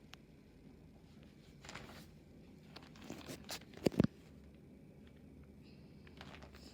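Handling noise: faint rustling, then two sharp knocks close together about four seconds in.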